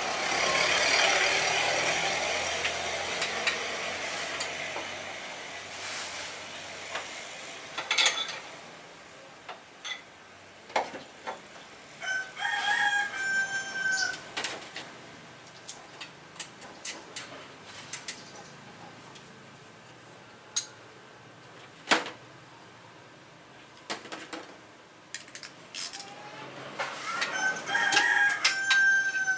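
A rooster crowing twice, each crow a long held call, once about twelve seconds in and again near the end. Scattered sharp clicks and knocks of tools run between the crows, and a hissing noise fades out over the first few seconds.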